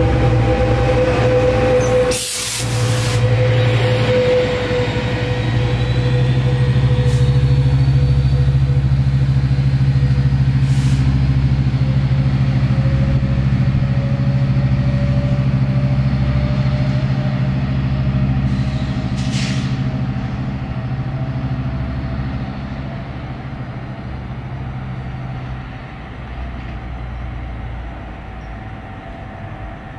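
Metrolink commuter train pulling away on its diesel locomotive, a steady engine drone with a whining tone that slowly rises in pitch, fading gradually over the last third as the train recedes. A sharp crack comes about two seconds in, and a brief hiss near twenty seconds.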